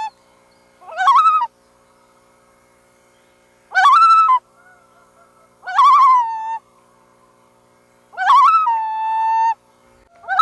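Loon calling: four separate short wavering cries, each rising in pitch and then holding with a quaver, a second or two apart, with another starting right at the end.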